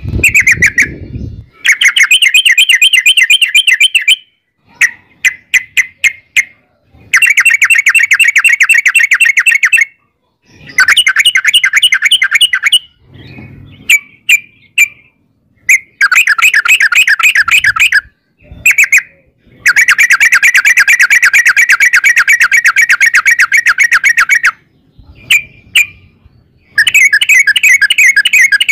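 Yellow-vented bulbul (trucukan) singing loudly in long rolling trills: rapid strings of repeated chattering notes, phrase after phrase a few seconds long, broken by short pauses and scattered single notes.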